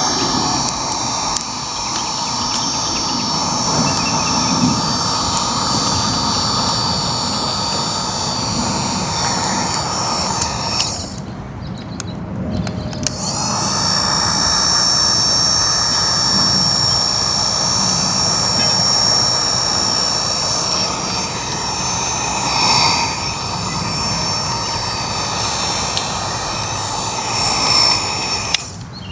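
Small electric blower motor running with a steady high whine. It cuts out for about two seconds a little before the middle, then spins back up.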